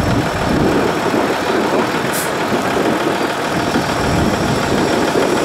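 Diesel engine of an 8x8 Tatra off-road truck running steadily, with a short hiss about two seconds in.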